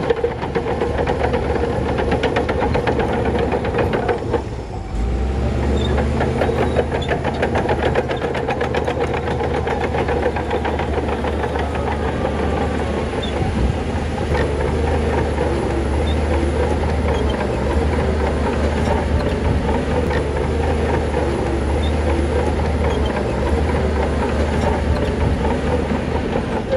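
Heavy diesel engine of earthmoving machinery running under load, steady and loud with a fast firing pulse; it dips briefly about four and a half seconds in, then carries on with a deeper low drone.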